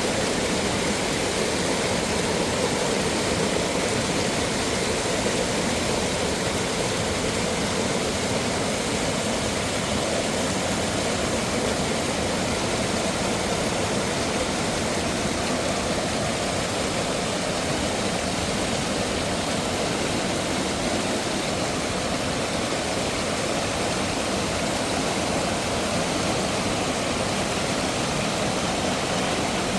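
Water rushing steadily over rocks from a mountain waterfall and stream, an unbroken rushing that holds the same level throughout.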